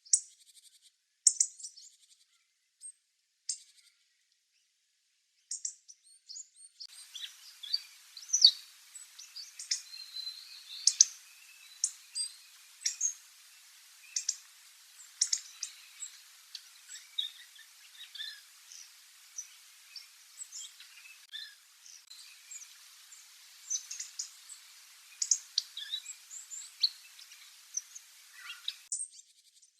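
Hawfinch calls: short, sharp, high ticks, a few widely spaced at first, then coming thick and fast over a faint hiss.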